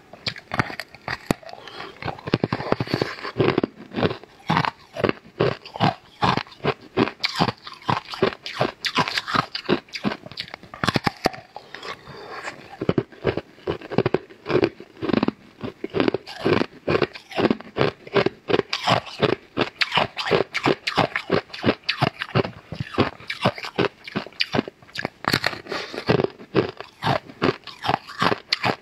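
Close-miked chewing and biting of a round, glossy, filled pastry: a constant run of short mouth clicks and smacks, several a second.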